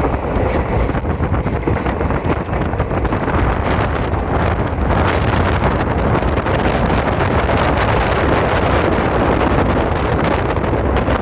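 A passenger train running at speed, with a steady rumble and wind rushing over the microphone.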